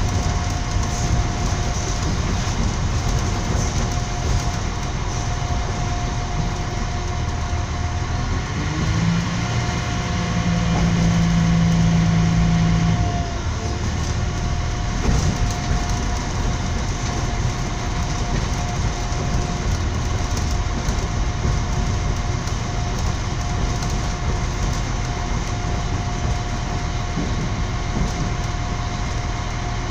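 Passenger train running at speed, heard from inside the carriage: a steady rumble with a constant whine over it. A deeper hum swells up about nine seconds in and drops away about four seconds later.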